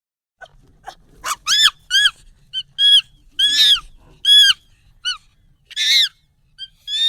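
Monkey calls, sped up and pitched up: a quick series of about a dozen short, high calls, each arching up and down in pitch, starting about half a second in.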